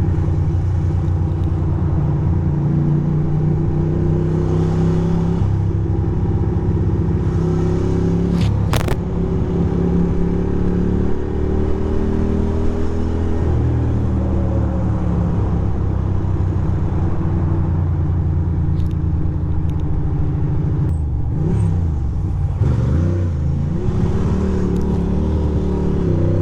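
Ducati Monster 620's air-cooled V-twin running at low speed while filtering through traffic. Toward the end the revs drop and climb again several times.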